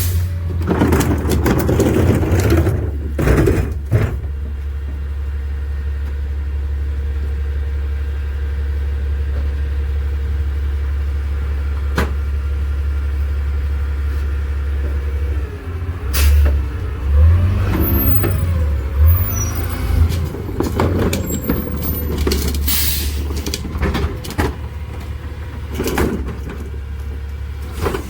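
McNeilus rear-loader garbage truck packing out recycling: its diesel engine and hydraulic packer run as a steady low hum with a held whine, then the pitch rises and falls repeatedly as the packer cycles. Sharp bangs and hisses come through it, loudest near the start and in the second half.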